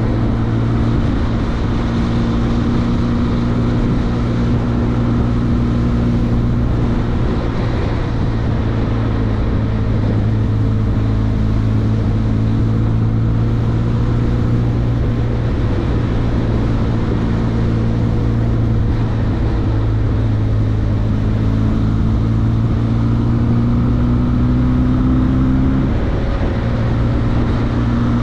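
Benelli TRK502X's 500 cc parallel-twin engine running steadily while the bike is under way, mixed with wind noise. The engine note climbs gradually from about 20 seconds in and drops suddenly about 26 seconds in.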